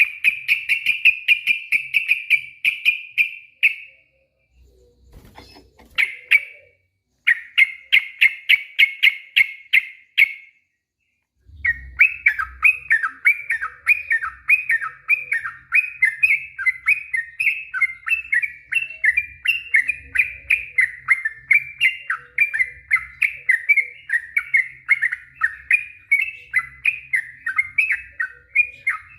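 Yellow-vented bulbul (trucuk) singing long, fast runs of repeated chattering notes that wobble up and down in pitch. It breaks off briefly twice in the first ten seconds, then sings one long unbroken run.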